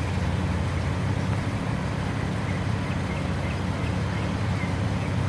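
A car engine running steadily at idle, a low, even hum that neither rises nor falls.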